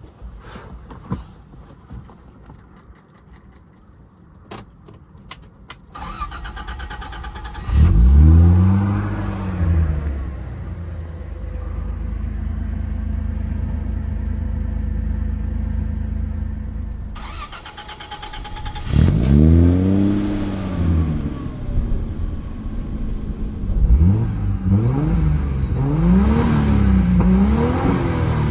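Turbocharged 4.5-litre inline-six of a 1993 Toyota Land Cruiser FZJ80 starting from cold after a few faint clicks, catching with a flare of revs about eight seconds in, then settling to a steady idle. It is revved once about two-thirds of the way through and blipped several times in quick succession near the end.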